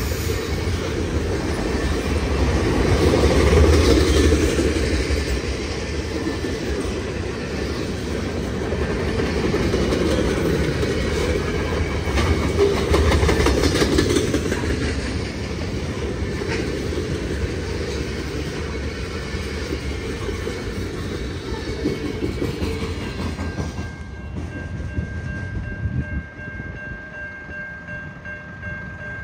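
Freight train rolling past, its cars' wheels clacking over the rail joints with a steady rumble that swells and eases. Near the end the rumble drops and a steady high-pitched whine comes in.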